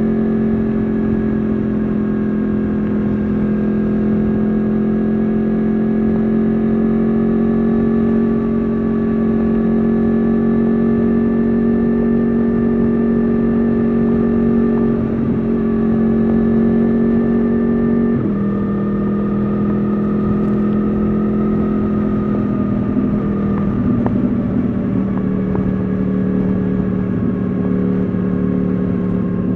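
Yamaha R1 RN22's crossplane inline-four running through an Akrapovič exhaust at a steady, near-constant speed, heard onboard while riding. Its pitch holds steady with small drifts, then drops a step about eighteen seconds in and settles lower.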